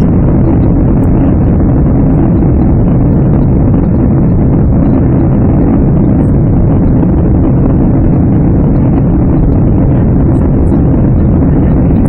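Steady, loud jet engine and airflow noise heard inside the cabin of a Boeing 767-300 under power.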